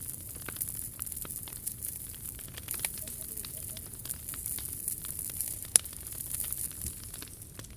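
Wood fire burning in a fire stand, with a steady hiss and irregular crackling, and one sharp pop a little before the end.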